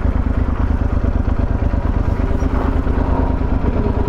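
Yamaha Super Ténéré 1200's parallel-twin engine running at low revs with a steady, pulsing rumble as the motorcycle is moved slowly into a parking spot.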